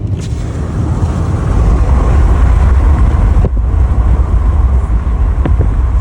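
Loud wind buffeting and road rumble in a moving car, getting louder about a second and a half in.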